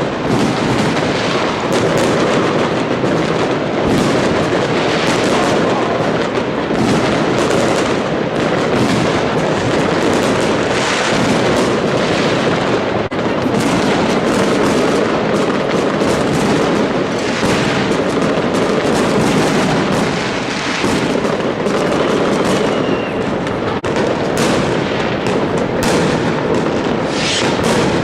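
New Year's fireworks: a dense, continuous barrage of bangs and crackling, with no pause.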